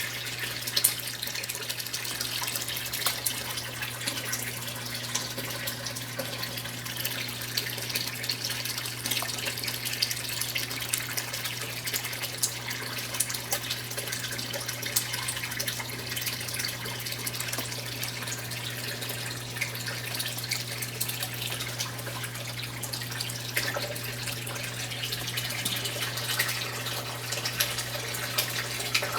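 Brastemp 9 kg washing machine with water running and splashing into its tub over a steady low hum. There is a single short knock about a second in.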